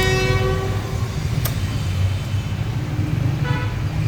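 A vehicle horn sounds a steady blast that stops about a second in, then gives a shorter toot near the end, over a steady low rumble of traffic. A single sharp click falls in between.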